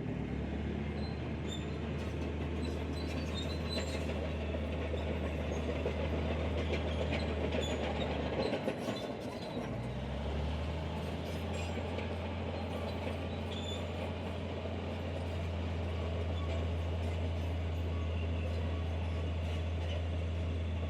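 Crawler bulldozer's diesel engine running steadily under load, with metallic clatter and squeaks from its steel tracks. The engine note drops away briefly a little before halfway, then picks up again and holds.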